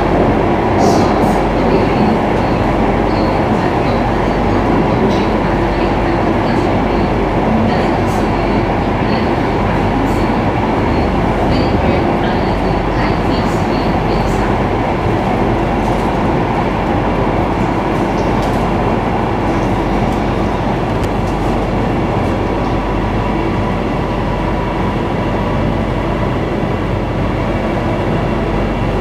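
Singapore MRT electric train running at speed, heard from inside the car: a steady rumble and rail noise with a few faint clicks in the first half.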